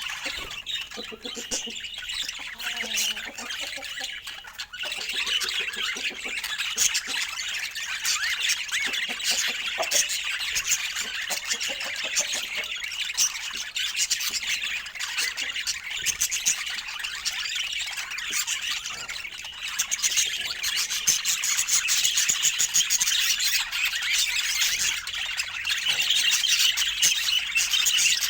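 Budgerigars chattering and squawking without a break: a dense stream of rapid warbles, chirps and harsh squawks, slightly louder near the end.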